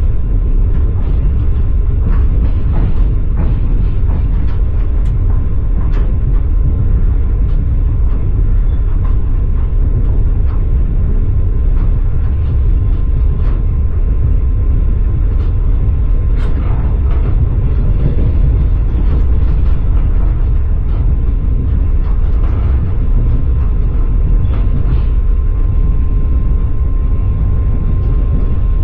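Passenger train carriage running on rails, heard from inside the carriage: a steady low rumble with scattered clicks of the wheels over the track.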